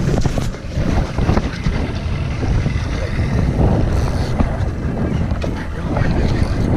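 Strong wind buffeting the microphone in an open boat: a loud, steady low rumble.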